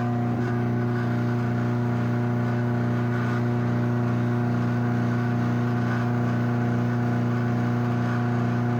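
Craftsman 53930 garage door opener running an opening cycle: a steady, even motor hum with a faint regular warble, constant throughout.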